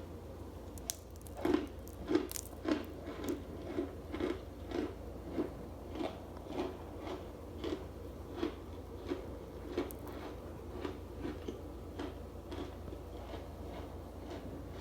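Someone chewing a mouthful of laundry starch with crisp, regular crunches, about two bites a second, that soften toward the end as the starch breaks down.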